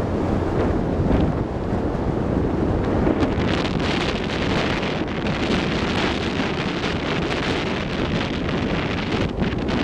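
Wind buffeting the microphone on a ship's deck at sea, over the steady rush of water along the moving hull; the hiss grows brighter about three and a half seconds in.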